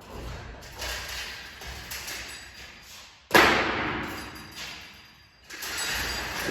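A loud bang about halfway through that dies away over a second or so, among quieter knocks and handling noises.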